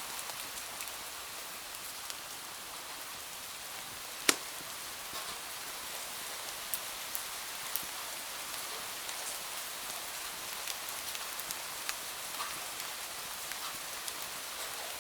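Steady rain hiss with scattered sharp ticks and clicks throughout, and one much louder pop a little over four seconds in.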